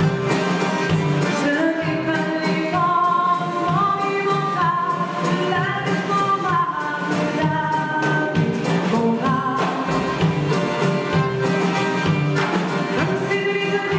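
A song sung with instrumental accompaniment: a held, gliding vocal melody over a steady beat.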